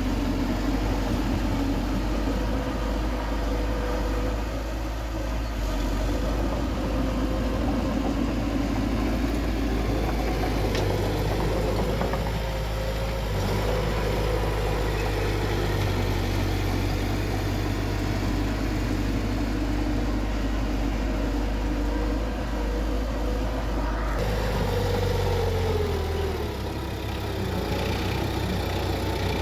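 Bulldozer's diesel engine running steadily under work, its pitch dropping briefly about 25 seconds in before settling again.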